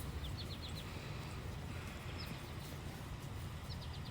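A small bird chirping in short runs of quick, high notes, three times, over a steady low rumble.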